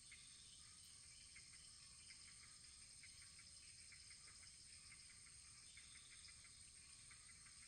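Faint crackling of a wood fire: many small irregular pops and ticks, several a second, over a steady soft hiss.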